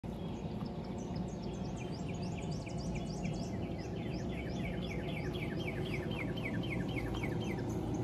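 Birds chirping in a quick run of short, downward-sliding notes, several a second, over a steady low background rumble.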